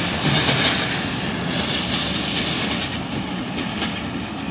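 Passenger train coaches rolling away over the rails, with occasional wheel clacks, the rumble slowly fading as the train recedes.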